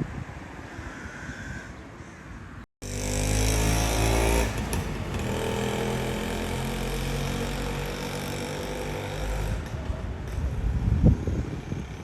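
Wind buffeting the microphone, then, after a brief cutout, a motor vehicle's engine running close by with a steady pitch, loudest just after the cutout and carrying on more quietly. A thump near the end.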